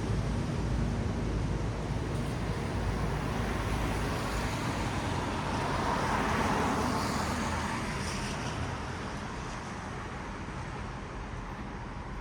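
Traffic on a wet city road: the hiss of tyres on wet asphalt over a low rumble, swelling as a vehicle passes about halfway through and then fading away.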